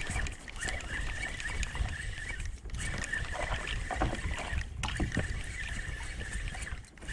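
Water sloshing against a kayak's hull, with small knocks and a low rumble.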